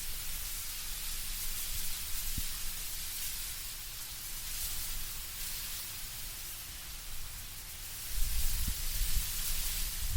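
Wind in autumn trees with leaves rustling, a steady soft hiss. A low rumble of wind swells about eight seconds in.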